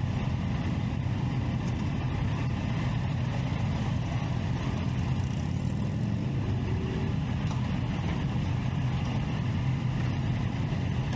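Triumph Street Triple 675's three-cylinder engine running steadily, with no revving.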